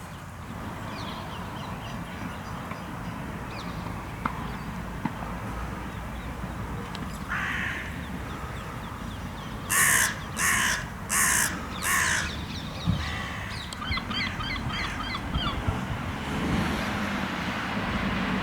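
Carrion crow cawing: a single call about seven seconds in, then four loud caws in quick succession. A rapid run of short, higher rattling calls follows, over a steady low background rumble.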